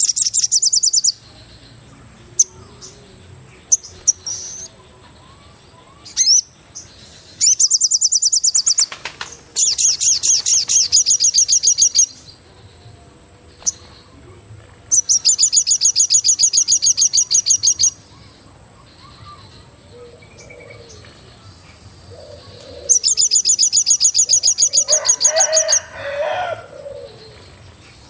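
Forest birdsong: a bird repeats a fast, high trill in bouts of about two to three seconds, five times, with a lower, shorter call near the end. A thin steady high tone runs underneath.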